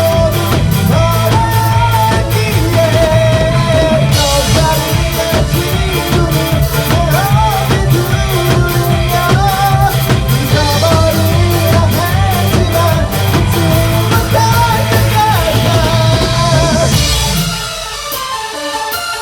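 Live electronic-rock band playing at full volume, with a driving drum kit, a heavy bass line and a bending lead melody above. Near the end the bass drops out and the music thins and gets quieter.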